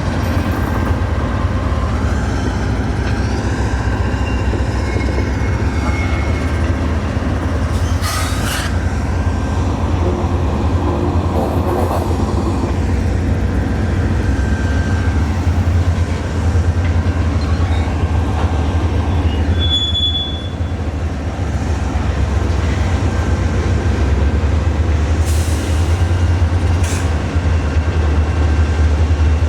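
A train rolling past: a steady, loud rumble of wheels on rail, with a few short squeals and clicks from the wheels.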